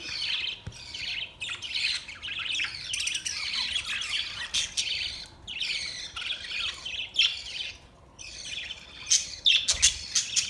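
Budgerigars chattering and warbling, several calling over one another in a dense, continuous stream with brief pauses, and a run of short, sharp calls near the end.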